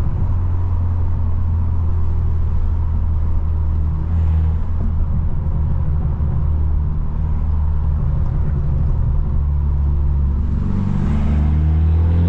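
Straight-piped BMW F30 exhaust droning steadily at a cruise, heard from inside the cabin.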